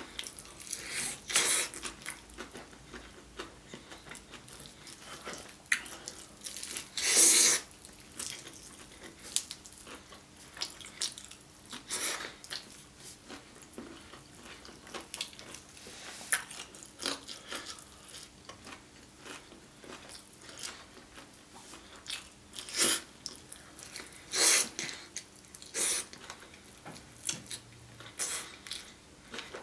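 Chewing and biting on sauce-coated Korean fried chicken, with irregular louder bites and crunches scattered through, the loudest about seven seconds in.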